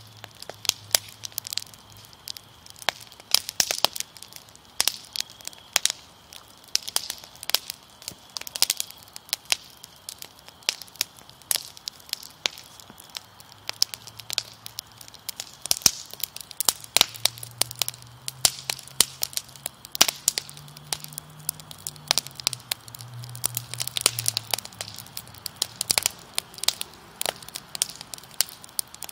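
Fire crackling, with irregular sharp pops and snaps of varying loudness over a soft hiss.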